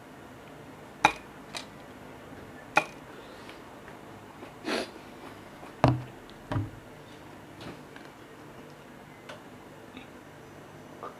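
Scattered sharp clicks and knocks of utensils against a cup or bowl during eating, about six over the stretch, with one slightly longer rustling sound a little before the middle.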